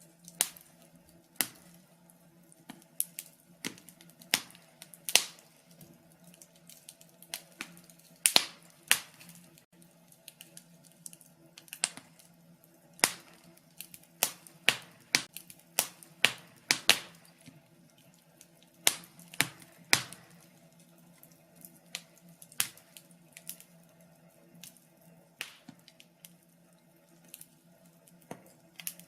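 Wood fire crackling in a fireplace: irregular sharp snaps and pops, about one a second, over a faint steady low hum.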